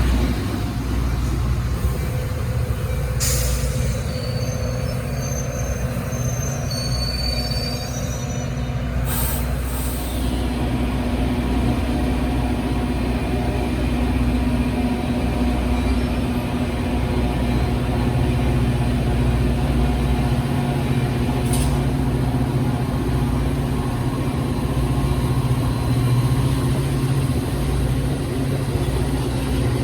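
Diesel-hauled train rolling past, a steady low rumble. A few short high squeals come in the first several seconds, with three sharp clicks, and a low steady hum grows stronger about ten seconds in.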